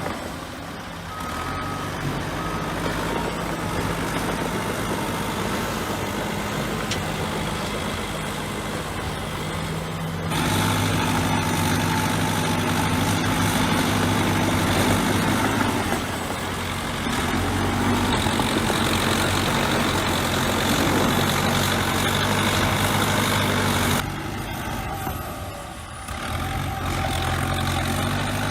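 Heavy diesel engine of a bulldozer running steadily at working revs, with two short beeps about a second in. The sound jumps louder about 10 seconds in, then drops and returns around 24 and 26 seconds.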